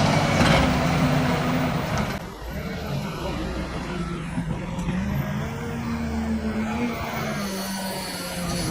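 A heavy machine's engine running under load, its pitch shifting a few times. The sound changes about two seconds in.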